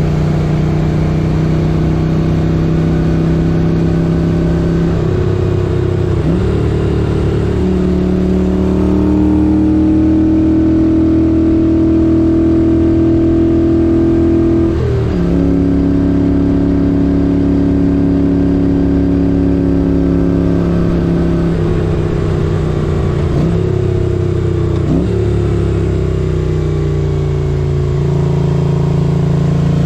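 A 1978 Moto Guzzi 850 Le Mans's air-cooled transverse V-twin running under way. It holds steady revs for stretches, with several quick changes in pitch as gears are changed.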